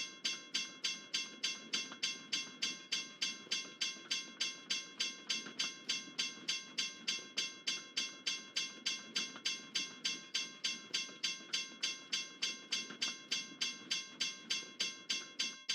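Railroad crossing bell ringing steadily, about three strikes a second, over the low rumble of a freight train rolling through the crossing. The rumble fades out near the end while the bell keeps ringing.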